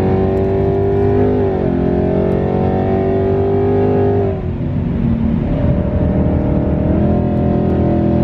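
Supercharged Coyote 5.0 V8 of a Mustang GT under hard acceleration, heard from inside the cabin: the engine note climbs, drops at an upshift about a second and a half in, climbs again, then falls away about four seconds in before rising once more near the end.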